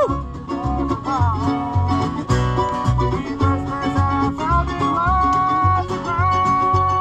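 Acoustic bluegrass band playing a tune: banjo and guitar over an even bass beat, with a lead line that slides up into its notes and holds one long note near the end.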